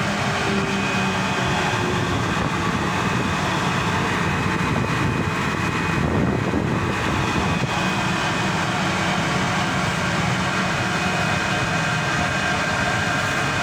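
Passenger boat under way: a steady engine hum mixed with an even rushing noise, unchanging throughout.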